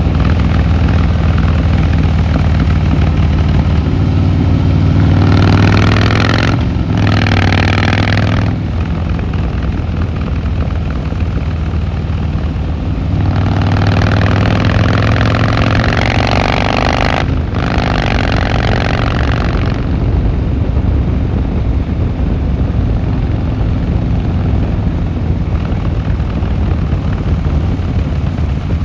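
Harley-Davidson Fat Boy Lo's V-twin engine and exhaust on the move. It pulls hard twice, each time with a brief break for a gear change (about six and a half seconds in and again about seventeen seconds in), then settles into a steadier cruise.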